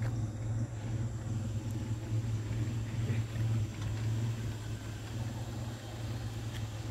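Car engine idling: a steady, unbroken low hum.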